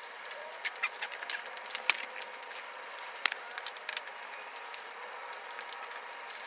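Scattered, irregular light clicks and taps of hand tools working on a motorcycle's exhaust fittings, over a steady background hiss.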